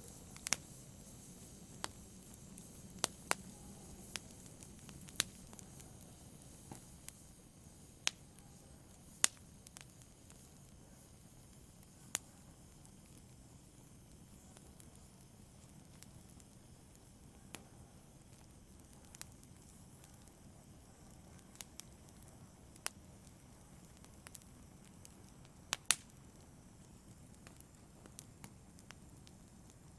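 Wood fire burning in a fireplace: a soft steady hiss with sharp irregular crackles and pops, a couple of louder pops near the start and again near the end.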